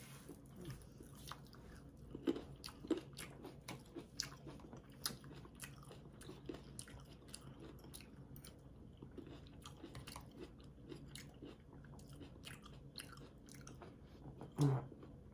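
Close-up eating sounds: chewing and biting into food, including pizza, heard as soft, irregular wet clicks and small crunches. A short louder voice sound comes near the end.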